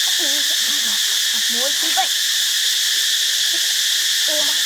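Steady, high-pitched chorus of forest insects that does not let up, with faint voices low beneath it.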